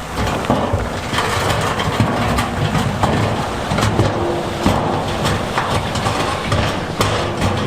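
Heavy diesel earthmoving machine running steadily while loose stone grinds and clatters, with frequent sharp knocks of rock on rock and steel.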